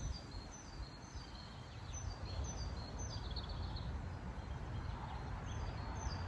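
Small birds chirping: a run of short, high, falling notes repeated every second or so, over a low rumble of wind on the microphone.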